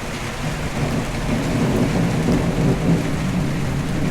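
Thunder rumbling, building up about a second in, over steady rain.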